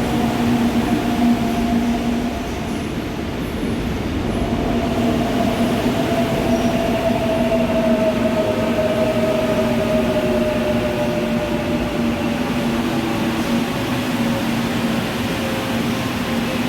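Seoul Line 4 electric subway train running into the station. Its traction-motor whine falls slowly in pitch as it brakes, over a steady rumble.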